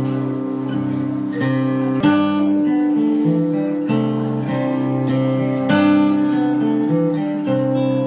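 Background music: acoustic guitar strumming chords, with a strong strum about two seconds in and another just before six seconds.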